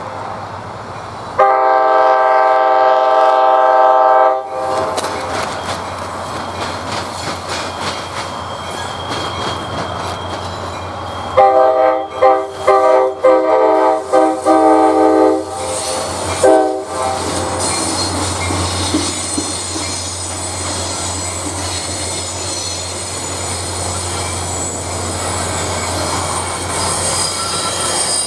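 A passing train's air horn sounds a chord of several notes in one long blast, then a run of short blasts about halfway through, over the rumble and clatter of the train. From there on, high-pitched wheel squeal rings over the passing cars.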